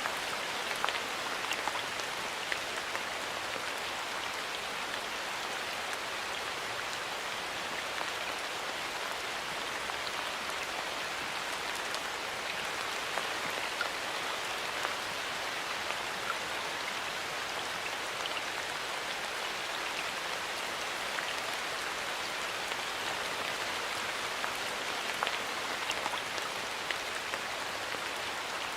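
Steady rain falling in a forest, an even hiss with scattered individual drops ticking on leaves and surfaces.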